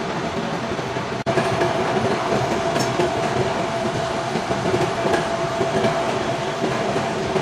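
Milling machine running while cutting gear teeth, a steady mechanical hum with a constant tone and a light rattle. It drops out for an instant about a second in.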